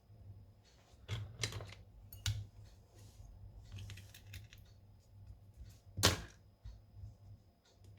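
Light clicks and taps from small tools and parts being handled on a work surface, in irregular little bursts, the sharpest knock about six seconds in, over a low steady hum.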